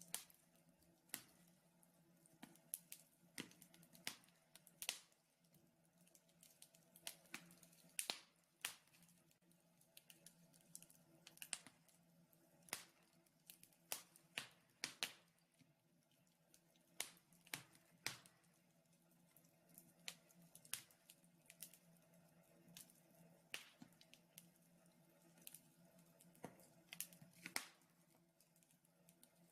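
Wood fire crackling in a fireplace: sharp, irregular snaps and pops, roughly one or two a second, over a faint steady hum.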